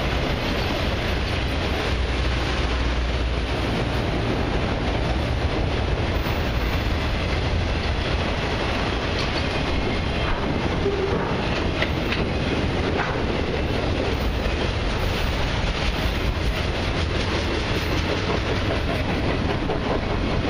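Autorack freight cars rolling past close by: the steady noise of steel wheels on the rails, with a few faint clanks near the middle.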